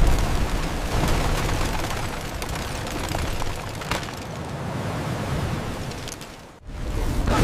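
Disaster sound effect of a giant tsunami wave striking: a loud, dense rush of noise over a deep rumble. It dips briefly near the end, then hits again.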